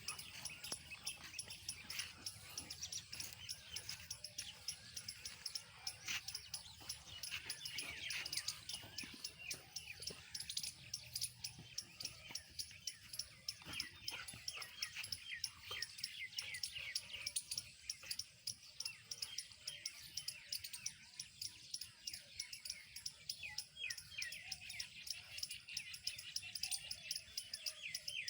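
Dense chorus of many short, high chirps, several a second and falling in pitch, over a steady high hiss.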